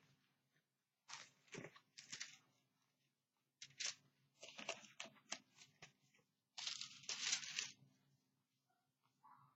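Paper pages of a Bible rustling in irregular bursts as they are leafed through to find a passage, over a faint steady hum.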